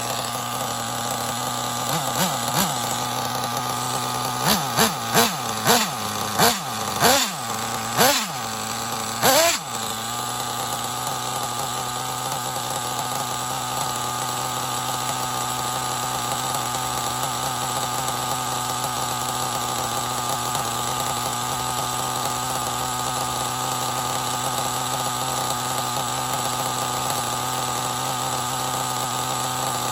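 Intech BR-6 Alpha .28 nitro engine running, revved in about ten quick throttle blips in the first ten seconds, then settling to a steady idle.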